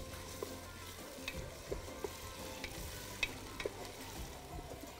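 Onions, garlic-ginger paste and chili sautéing in hot fat in a steel pot, a soft steady sizzle, while a spoon stirs and knocks against the pot now and then.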